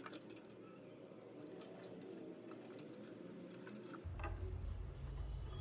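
Faint scattered clicks and ticks of small parts being handled during work on an amplifier circuit board. About four seconds in, a steady low hum starts.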